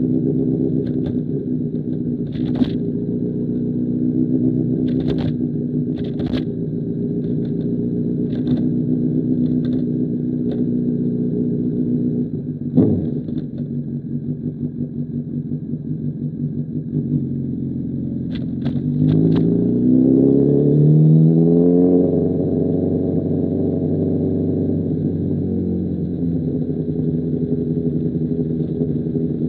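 2005 Honda CBR1000RR's inline-four through an SC Project CR-T exhaust, running at a steady engine speed with scattered sharp clicks. About two-thirds of the way through it revs up, holds, then drops back to a steady run.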